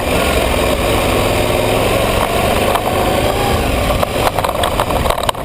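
Aprilia ETV 1000 Caponord's V-twin engine running at a steady speed under a dense rush of noise, with a few sharp knocks near the end.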